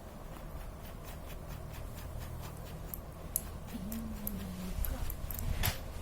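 Small metal clicks and ticks of bicycle hub parts being handled and fitted together, with a new cone being put in place; the clicks come more often and sharper in the second half.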